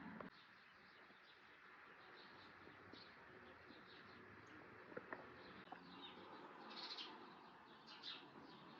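Faint chirping of small birds, short high calls scattered throughout and busiest near the end, with a couple of soft clicks about five seconds in.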